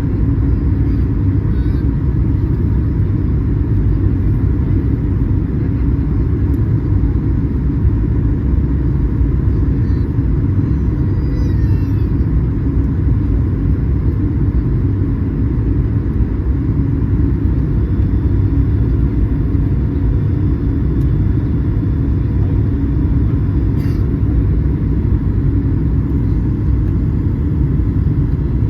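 Steady low rumble of a Boeing 737 airliner's engines and airflow, heard inside the passenger cabin.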